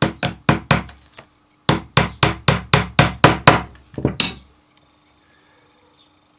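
Small hammer tapping a gimp nail (small tack) into a wooden beehive frame, driving it at an angle through the wedge into the top bar to hold the wax foundation. A quick run of four taps, a short pause, then about ten taps at roughly four a second that stop a little past four seconds in.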